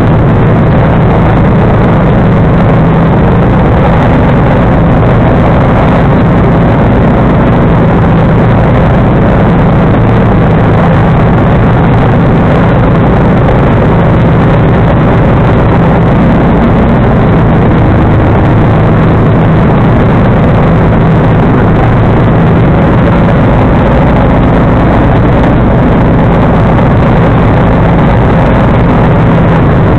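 John Deere 445 garden tractor's liquid-cooled V-twin engine running loud and steady, driving its 47-inch snowblower.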